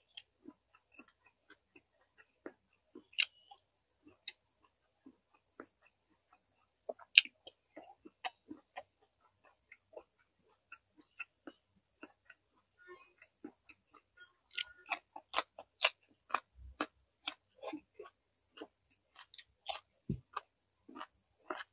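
Close-miked chewing of roasted vegetables, starting with a carrot: sparse wet mouth clicks and soft crunches, coming thicker and louder in the second half.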